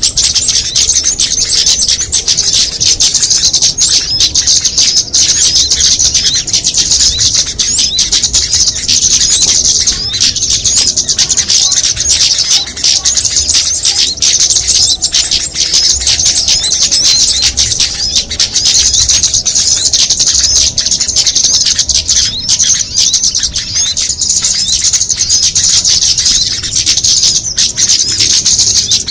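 Dense, unbroken chatter of many small songbirds calling over one another, a layered bird-lure mix of rapid high chirps and trills.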